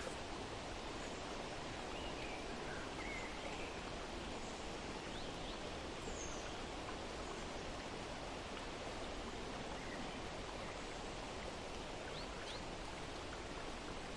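Steady outdoor ambience, a soft even rush, with faint bird chirps now and then.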